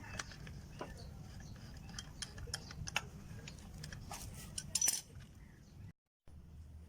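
Scattered light clicks and clinks of small hard objects being handled over a low background hum, with the loudest cluster of clicks near the five-second mark. The sound then drops out for a moment.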